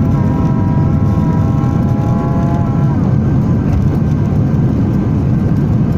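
Jet airliner cabin noise during takeoff climb: a loud, steady low rumble of the engines and airflow. A steady whining tone over it fades out about halfway through.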